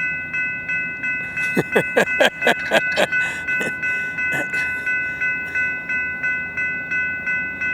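Railroad grade-crossing bell ringing steadily at about three strokes a second: the crossing signals have activated for an approaching train. A short run of sharp clicks comes between about one and a half and three seconds in.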